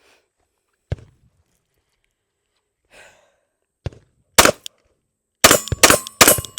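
Glock 45 9mm pistol fired about five times, the shots coming quickly in the last two seconds, after two quieter sharp knocks.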